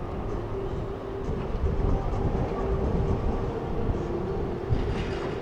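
Steady low rumble of a running vehicle with a constant hum that dips slightly in pitch about four seconds in, heard as city ambience.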